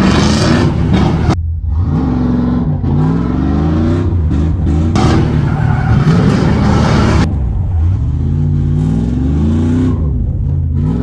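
BMW E46 drift car's engine revving up and down again and again under hard driving. Stretches of loud tyre screech come and go with it, as the car slides.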